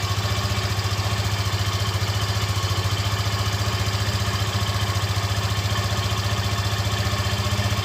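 Yamaha FZ15's fuel-injected single-cylinder engine idling steadily on a cold start, an even rapid pulsing throughout. The owner presents this as the engine's normal sound, with no timing-chain rattle.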